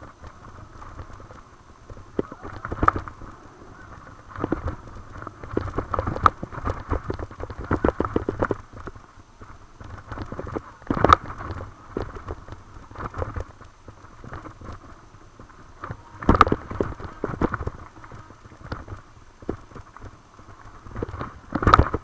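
Mountain bike clattering down a rough dirt trail: irregular knocks and rattles from the frame, chain and tyres striking roots and rocks, a few hard jolts standing out, over a steady low rumble.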